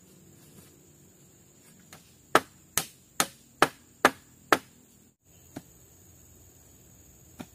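Six quick, sharp chopping strikes in a row, about two a second, with a few lighter single strikes before and after.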